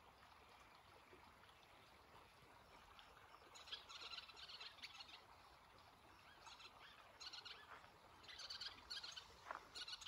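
Birds chirping in several short bursts of high calls, starting about three and a half seconds in and recurring to the end, over a faint steady background hiss.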